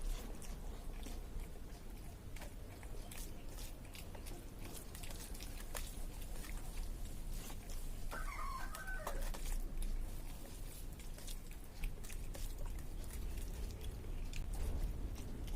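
A chicken calls once, a pitched call of a little over a second about halfway through. Throughout, there are small clicking sounds of eating.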